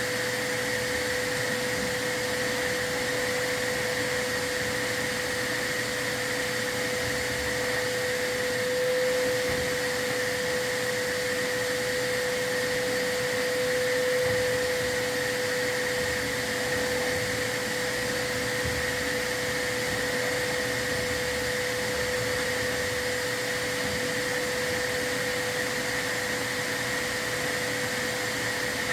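A vacuum running steadily with a constant whine, the dust-control vacuum used during a chimney sweep.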